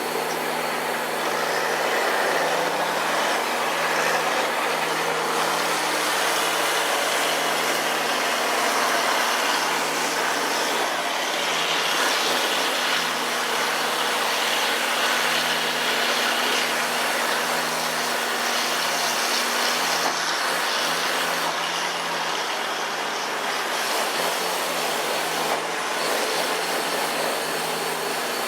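A walking-floor truck running steadily, with a constant low hum and a dense, even rushing noise.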